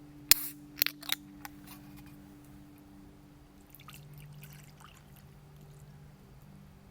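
Three sharp knocks or clatters in quick succession about a second in, then faint scattered clicks and handling noises.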